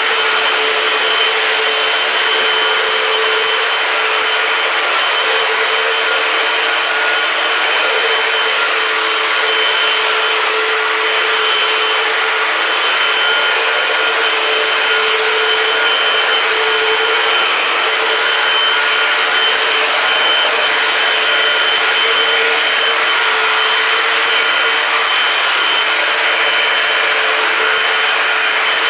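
Eureka AirSpeed Multicyclonic Pet upright vacuum cleaner running steadily as it vacuums, a constant rush of air with a steady whine and a lower hum.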